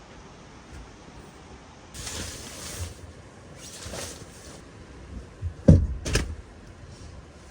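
Two brief sliding swishes, then two sharp knocks about half a second apart, the second pair the loudest.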